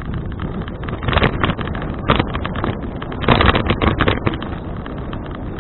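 Wind buffeting an action camera's microphone on a moving bicycle: a constant rough rumble and crackle, with stronger gusts about a second in and again from about three to four seconds in.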